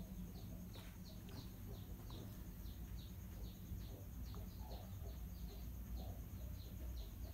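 A bird chirping faintly in the background, short falling chirps about three a second, over a low steady hum.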